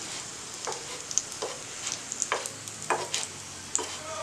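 Batter-coated bread slices sizzling in ghee on a nonstick tawa, with a steady frying hiss. A wooden spatula scrapes and taps against the pan surface a handful of times, irregularly.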